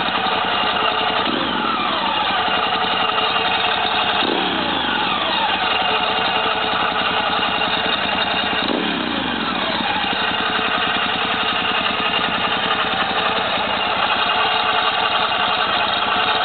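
Ducati Multistrada 1100's air-cooled L-twin engine idling, with three quick throttle blips about a second, four seconds and nine seconds in, each revving up and falling back to idle.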